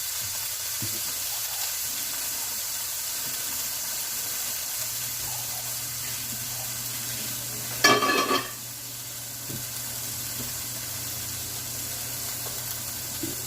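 Chuck roast searing in hot oil in a pot, a steady sizzle. About eight seconds in comes one brief, loud clatter.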